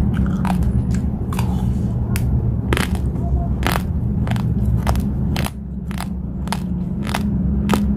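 Raw basmati rice being chewed close to the microphone: irregular sharp crunches, about two to three a second, over a steady low rumble.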